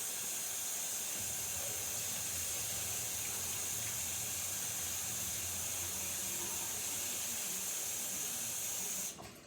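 A steady, even hiss, strongest in the high range, that cuts off suddenly about nine seconds in.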